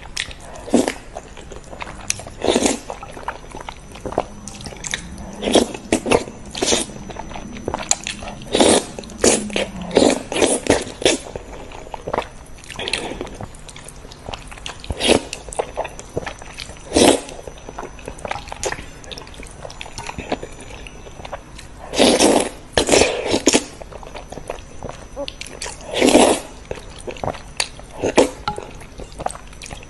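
Close-miked eating sounds: crunchy bites and chewing in irregular crackling bursts, with the loudest bites clustered about three quarters of the way through.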